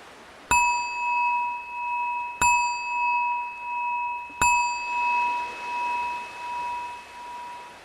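A meditation bell struck three times, about two seconds apart, each strike ringing on with a slowly wavering tone. It marks the start of the mindful breathing practice.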